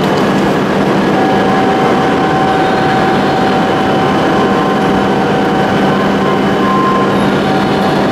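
An E7-series Shinkansen train standing at the platform, its onboard equipment giving a loud, steady hum with several held tones, one of them starting about a second in.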